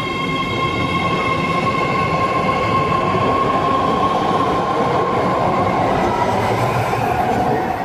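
BART train pulling out of the station: a steady high-pitched whine over rumbling wheel-on-rail noise, the whine fading near the end.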